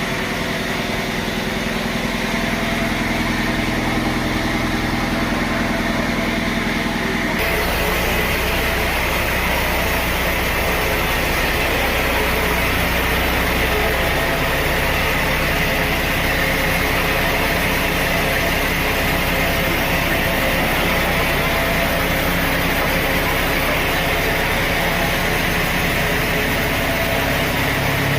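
Sawmill machinery running steadily, its sound changing abruptly about seven seconds in to a brighter, higher steady whine.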